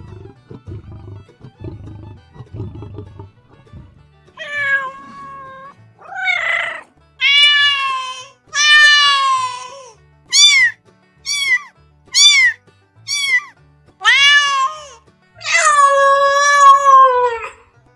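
Domestic cat meowing over and over, starting about four seconds in. A quick run of short meows comes in the middle and a long, drawn-out meow near the end. Quiet background music plays underneath.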